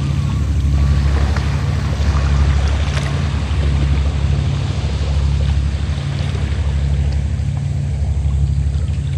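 A fishing boat's engine runs steadily with a low, evenly pulsing hum, over the wash of sea waves.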